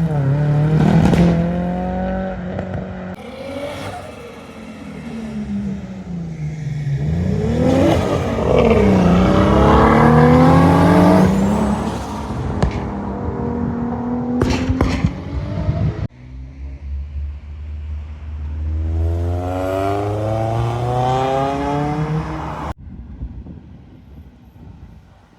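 Modified cars driving off one after another, their engines revving and accelerating, the pitch rising and dropping repeatedly through gear changes, with a few sharp cracks.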